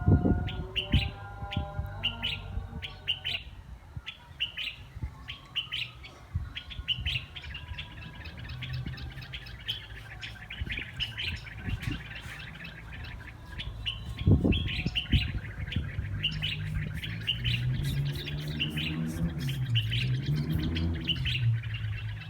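Small birds chirping over and over in quick, high chirps, with scattered sharp clicks and a low hum underneath.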